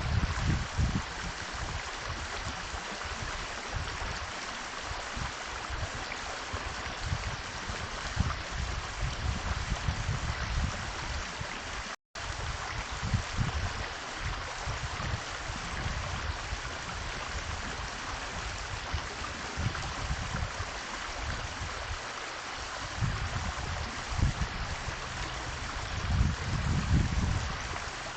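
Steady rushing noise of running water, with irregular low rumbles underneath. The sound cuts out for an instant about twelve seconds in.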